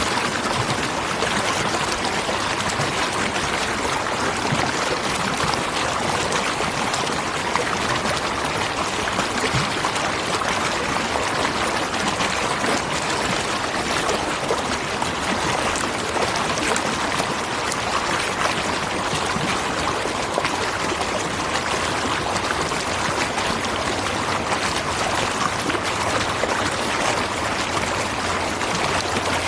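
Waterfall rushing steadily: an even, unbroken noise of falling and splashing water.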